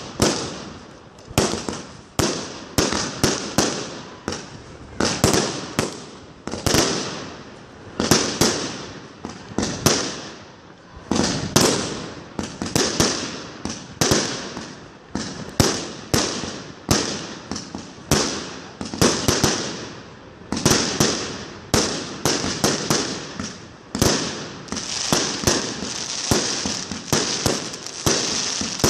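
Firework batteries firing a rapid string of shots, about two a second, each launch followed by its burst in the air. Near the end, crackling stars add a steady sizzling crackle between the shots.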